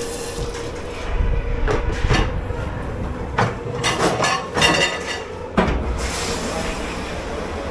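Pots, pans and dishes clattering and knocking in a commercial kitchen dish pit, several sharp knocks through the middle, over a steady machine hum. A steady hiss starts near the end.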